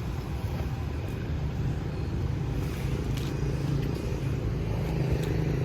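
Steady road-traffic noise: a continuous low rumble of motor vehicle engines running close by.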